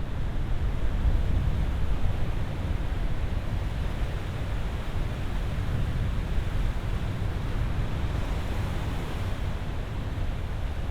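Ocean surf: a steady rush of waves breaking and washing, slightly fuller in the first few seconds and easing off after the middle.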